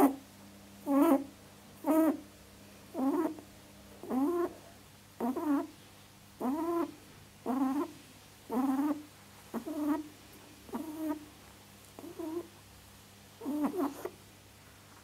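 Pet rabbit honking: a whimpering, pitched call repeated about once a second. It is a submissive cry that signals the rabbit is stressed.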